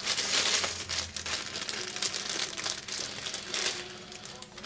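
Crinkling and rustling of plastic parts packaging handled by hand, in irregular crackles that fade toward the end.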